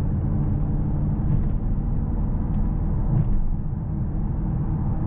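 Steady low drone of road and engine noise inside the cabin of a 2024 Mercedes-AMG S63 on the move, with the windows closed.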